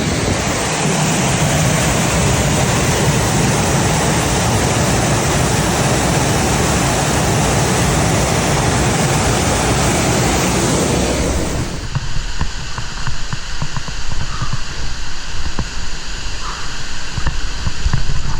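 Small waterfall pouring into a creek pool, a steady rush of water. About twelve seconds in the sound changes abruptly to a lighter, more uneven splashing and trickling.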